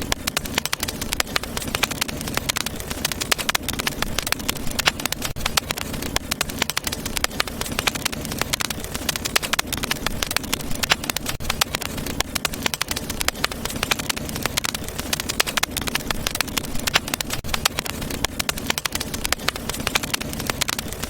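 Wood fire burning in a fireplace, crackling steadily with many quick pops over a low rumble of flame.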